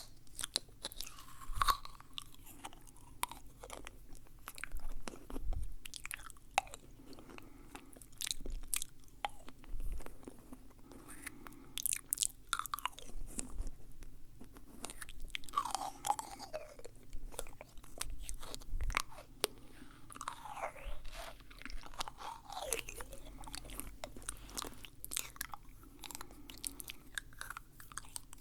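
Close-miked wet mouth sounds: rapid sharp clicks, smacks and tongue noises, irregular and continuous.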